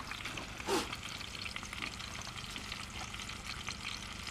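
Chicken pieces frying in a cast-iron pot on a camp stove: a steady sizzle with fine crackling. There is one brief louder noise under a second in.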